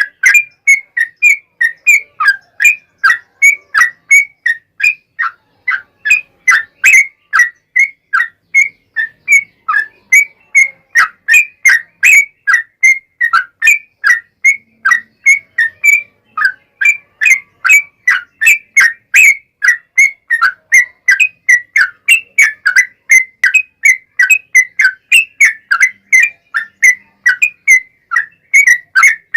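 Yellow-vented bulbul (trucuk) song: a long, unbroken run of short, clear, high notes at an even pace, about three a second.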